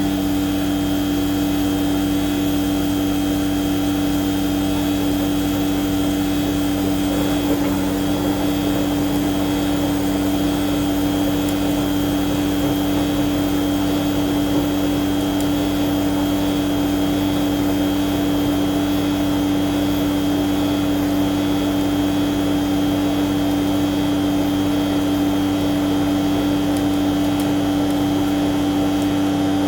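A machine running steadily: a constant low hum with a fainter high whine above it, unchanging throughout.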